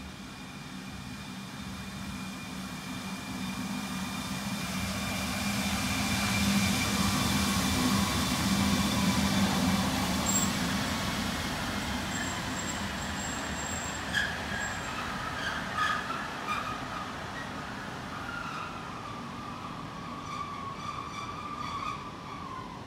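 DB class 143 electric locomotive hauling double-deck coaches past the platform: a steady electric hum and rolling noise that grows louder as it draws near, a few wheel clicks over rail joints about two-thirds of the way through, and a high whine that falls in pitch near the end.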